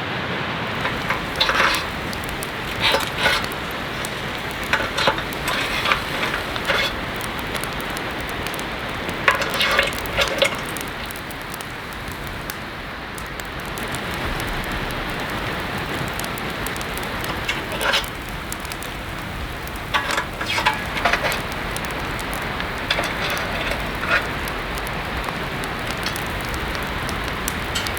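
Heavy rain falling steadily, with short irregular bursts of clatter every few seconds.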